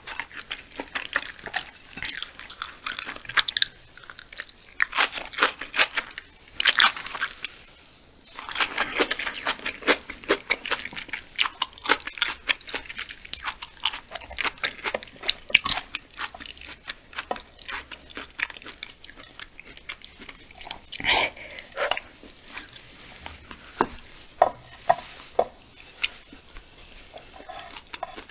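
Close-miked chewing of raw yellowtail sashimi and sprouts, many small sharp clicks and crackles of mouth sounds coming in irregular runs.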